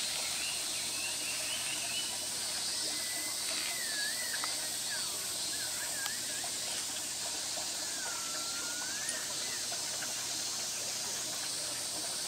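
Steady hiss with a few faint whistling calls that glide up and down, from a few seconds in until past the middle.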